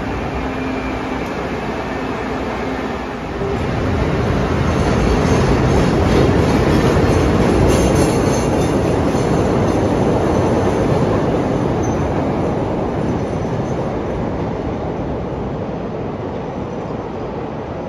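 A CTA 'L' rapid-transit train running on the elevated track past the platform. The rumble of its wheels and motors swells about four seconds in, peaks, then slowly fades as it moves away, with some high wheel squeal in the middle.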